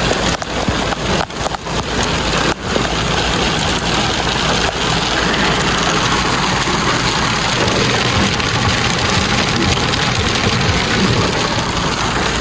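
Heavy shower pelting a car: a dense, steady rush of noise with a scatter of sharp hits in the first few seconds.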